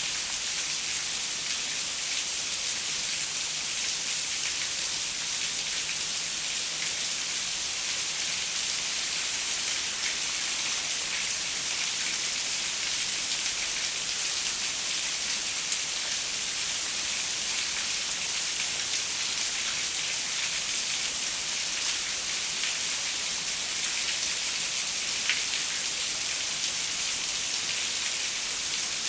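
Steady rain falling on a window, an even hiss with scattered individual drops ticking.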